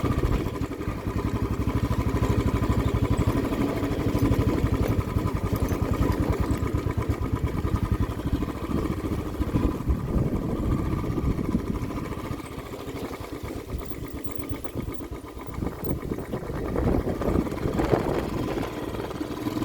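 A vehicle's engine running on the move in an even, fast pulse, quieter for a few seconds past the middle.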